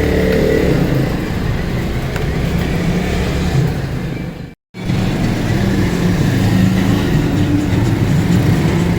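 Steady engine or motor noise with a low rumble, broken by a sudden moment of silence about halfway, where the sound cuts out and then resumes.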